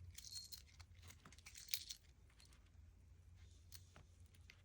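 Faint rustling and light clicks of small screws and washers being handled, mostly in the first two seconds, with a sharper click near the middle; otherwise near quiet.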